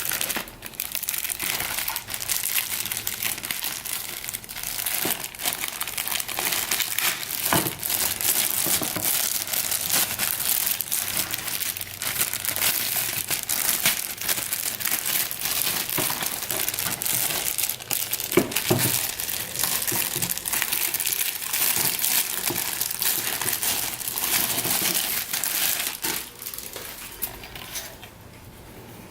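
Plastic packaging of resin model-kit parts crinkling and rustling continuously as it is handled, with scattered small clicks, stopping shortly before the end.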